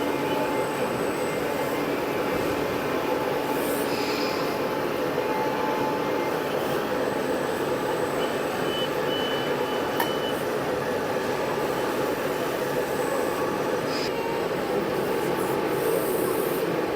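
Engines of working tractors and machinery running steadily, with a short high beep about halfway through.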